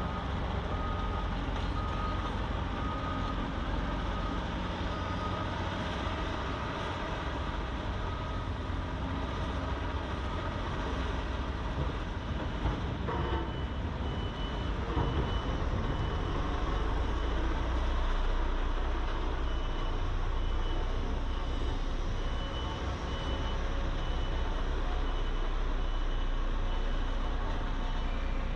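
Heavy construction machinery running with a steady low diesel rumble, while back-up alarms beep in a repeating pattern: a lower-pitched alarm in the first third, then a higher-pitched one from about halfway on.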